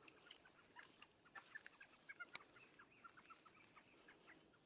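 Faint bird calls: many short chips and clucks in quick, irregular succession.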